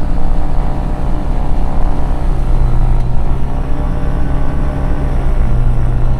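Diamond DA20 Katana's Rotax engine running steadily at run-up power of about 1900 RPM. Its pitch dips briefly twice as the variable-pitch propeller is cycled.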